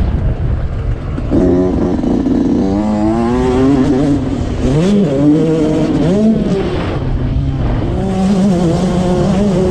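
Dirt bike engine revving on a motocross track, its pitch rising and falling over a steady background engine rumble. The note comes in strongly about a second in, climbs, dips and climbs again in the middle, then holds steadier near the end.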